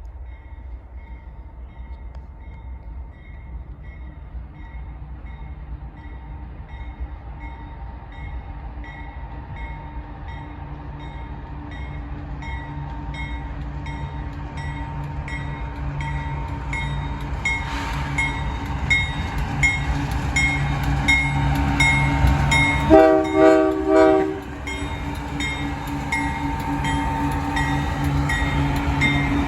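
Union Pacific diesel freight train drawing near: the locomotive's low engine rumble grows steadily louder while a bell dings at an even pace. Near the end the locomotive horn sounds one blast of about a second and a half.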